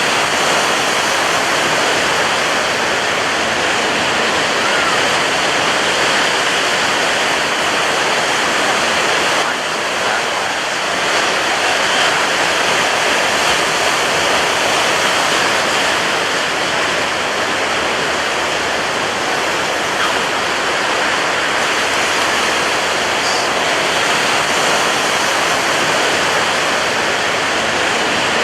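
Ocean surf breaking on a beach: a continuous, loud wash of waves with a slight lull about ten seconds in.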